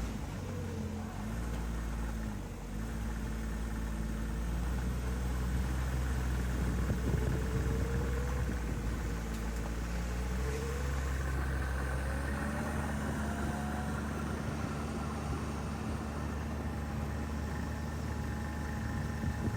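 An engine running steadily, its note shifting a couple of times, most clearly about halfway through.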